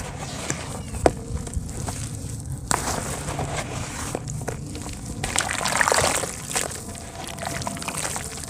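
Soft dirt chunks crumbling into water with sloshing and crackling, broken by a few sharp clicks, and a louder wash of noise about five to six seconds in.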